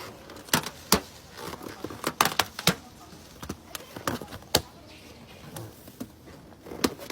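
A series of short, sharp clicks and knocks at uneven intervals, with a faint voice now and then.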